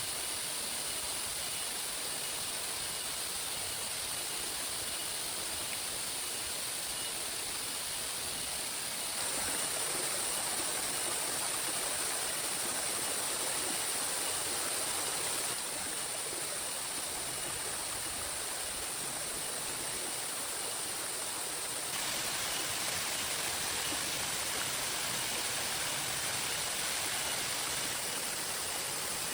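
Heavy rain pouring steadily, a dense even hiss of falling water with no single drops standing out. Its level steps abruptly up or down a few times, about every six seconds.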